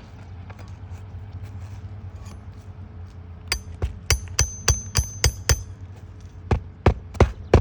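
Hammer driving roofing nails into asphalt shingles: starting about three and a half seconds in, a quick run of about eight strikes with a metallic ring, then after a short pause another run of strikes at about three a second.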